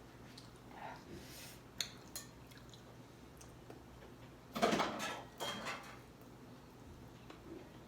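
Clinks, knocks and scrapes of dishes and cutlery during a meal: a few single clicks, then the loudest cluster a little past halfway.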